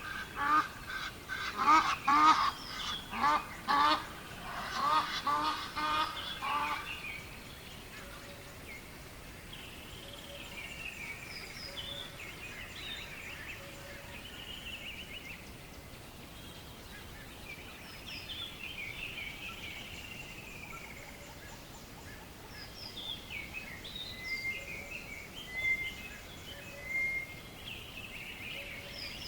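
Waterfowl honking loudly in a rapid run of repeated calls for the first several seconds, then stopping. Small birds chirp and sing more quietly for the rest, over a faint steady background.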